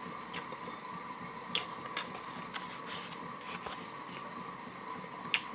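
Mouth sounds of a person chewing soft tacos: a few sharp clicks and smacks, the loudest about a second and a half and two seconds in and again near the end, over a steady faint hum.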